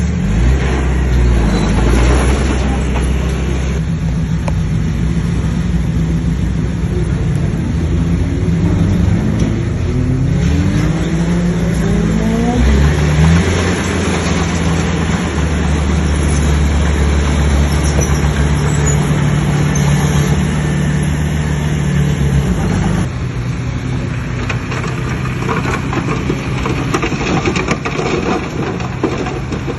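Bulldozer's diesel engine working, its pitch rising as it revs up about ten seconds in, holding high and steady, then dropping back about twenty-three seconds in.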